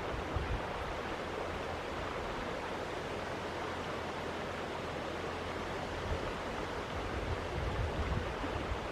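Steady rush of flowing river water, with low wind rumbles on the microphone near the end.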